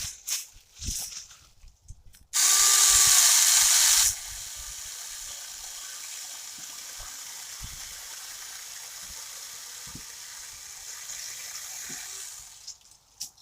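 SAKER 20V cordless mini chainsaw running: its motor starts suddenly a couple of seconds in and whines loudly for about two seconds. It then settles into a quieter, steady whirr for about eight seconds as the chain cuts through a piece of popple (aspen), and fades out near the end.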